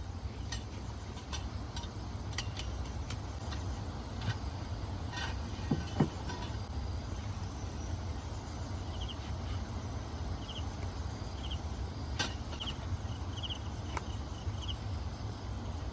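Outdoor ambience with a steady low rumble and scattered clicks, and a louder knock about six seconds in. From about nine seconds on, an insect, cricket-like, gives short chirps, repeated every second or so.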